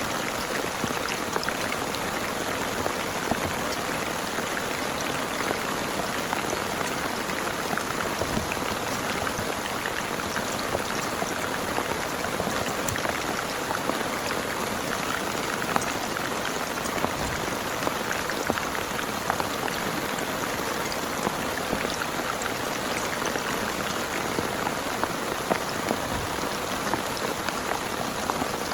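Heavy rain falling steadily, with many separate drops ticking close by.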